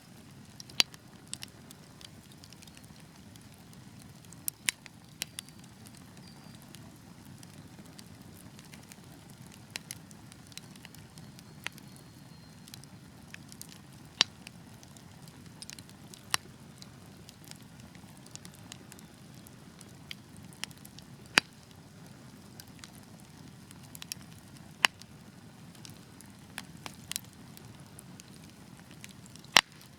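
Wood fire crackling: irregular sharp pops and snaps every second or two, a few much louder than the rest, over a steady low rush of burning.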